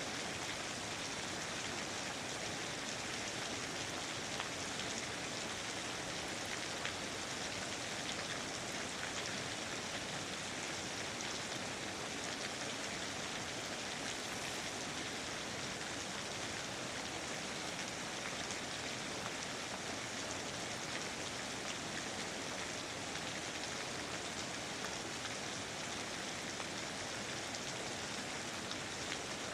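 Steady rain falling, an even hiss with fine drop patter throughout.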